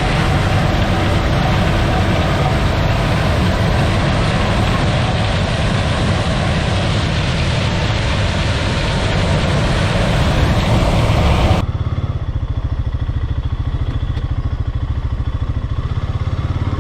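Heavy farm machinery running steadily, a dense mechanical noise over a low engine hum. About twelve seconds in it cuts abruptly to a quieter, lower engine drone.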